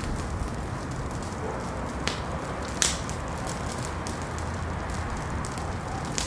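Wood fire burning in a fireplace: a steady low rumble with scattered crackles and pops, the loudest pop a little under three seconds in.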